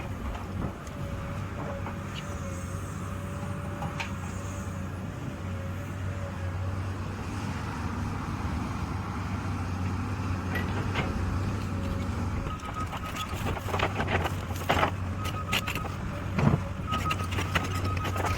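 Excavator's diesel engine running steadily, with knocks and clanks of the machine working in the later part and a repeated beeping alarm starting about two-thirds of the way in.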